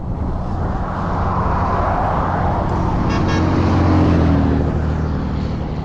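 Motor vehicle engine and road noise: a steady low hum that builds to a peak about four seconds in and then eases off.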